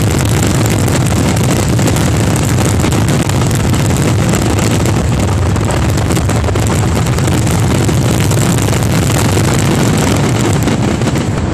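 Fireworks in a dense barrage: many bursts and crackles running together into a steady, loud rumble with crackling on top.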